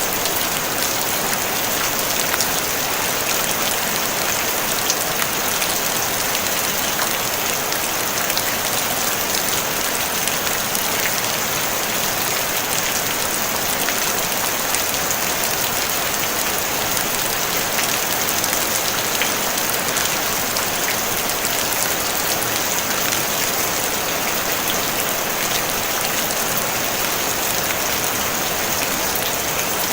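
Steady rain falling on a tin roof: an even hiss dense with the ticks of single drops striking the metal.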